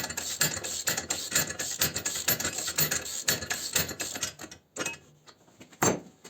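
Ratchet wrench clicking rapidly, several clicks a second, as it turns the bolt of a pulley puller to draw a pulley off an engine shaft. The clicking stops about three-quarters of the way through, and a single sharp knock follows near the end.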